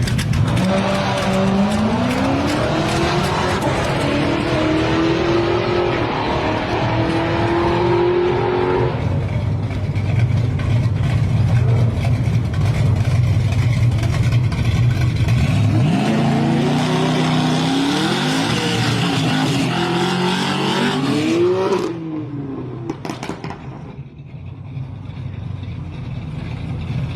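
Muscle car engine accelerating hard, its pitch climbing in steps through the gears, then a steady low rumble. Partway through comes a second burst of revving, with the pitch rising and dropping, and after that it settles back to a quieter low rumble.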